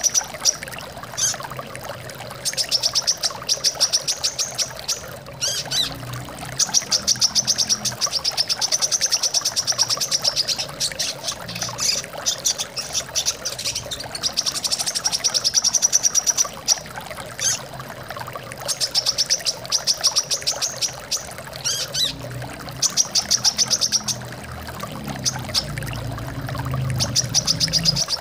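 Brown-throated sunbird giving rapid, high trills in repeated phrases a couple of seconds long, over a steady sound of flowing water.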